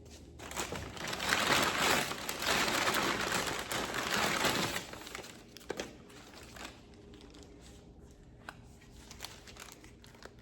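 Paper or plastic packaging crinkling and rustling as it is handled for several seconds, then a few light clicks and taps.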